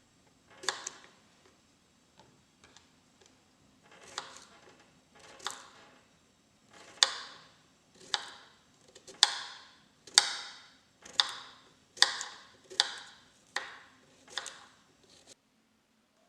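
A series of sharp knocks or strikes, a few scattered at first, then a steady run of about one a second, each with a short ringing tail, stopping just before the end.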